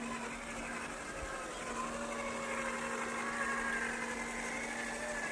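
Small electric motor and gear drivetrain of a 1/10-scale RC crawler truck whining as it drives, its pitch wavering up and down with the throttle over a steady low hum.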